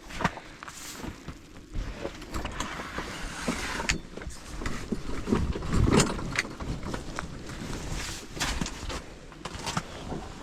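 Ice fishing tent being set up: fabric rustling and flapping, with frequent knocks and handling noise and a heavier thud about six seconds in.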